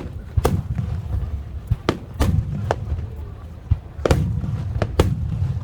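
Aerial fireworks shells bursting in quick succession: about eight sharp bangs at irregular gaps of a half-second to a second and a half, over a continuous low rumble of booms and echoes.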